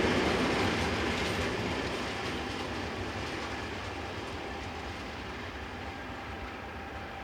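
Train running over the rails, wheels clicking on the track, the sound fading steadily as it moves away.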